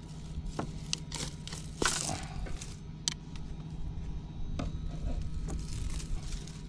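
Weed stems and small woody growth snapping and crackling as they are pulled and handled, in scattered sharp snaps with a louder rustle of brush about two seconds in.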